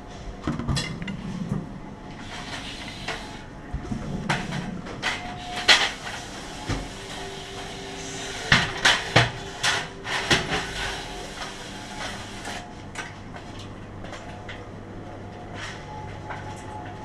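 Irregular metallic clinks and knocks of tools or parts being handled, loudest in a cluster about halfway through, over a faint steady hum.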